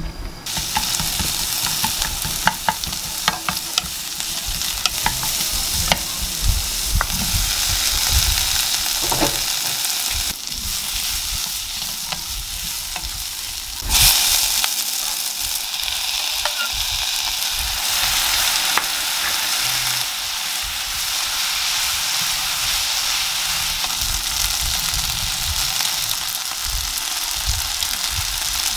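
Onion, garlic, spaghetti and sausages sizzling steadily in olive oil in a nonstick frying pan while being stirred and tossed with tongs and a spatula, with scattered clicks of the utensils against the pan in the first several seconds. About halfway through the sizzling jumps suddenly louder.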